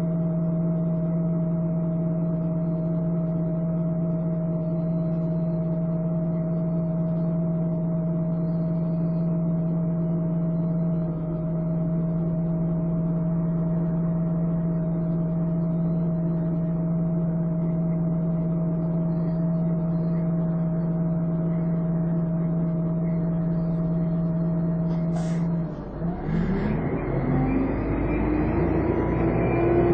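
Volvo Olympian double-decker bus engine idling steadily. A couple of sharp clicks come about 25 seconds in, then the engine revs up as the bus pulls away, with a rising hoover-like whine.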